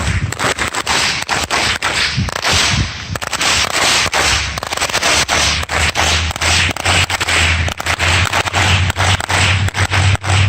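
Fireworks going off in a rapid, unbroken string of sharp, irregular cracks, many each second.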